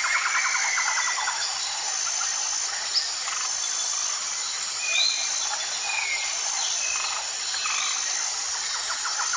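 Birds calling over a dense insect-like chorus: a fast pulsed trill at the start and again at the end, scattered short chirps, and a high thin note repeating about every second and a half.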